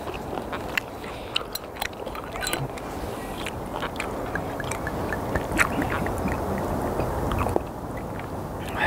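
Close-up chewing of sliced raw skate: a steady run of small wet clicks and crunches from the mouth, one sharper click about halfway through.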